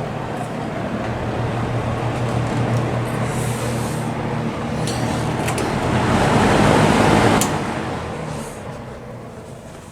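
Vintage JCPenney box fan, made by Lakewood with a General Electric motor, running with a steady motor hum and a rush of air that grows louder up to about seven seconds in. A click follows, and the fan begins to spin down, its sound fading away.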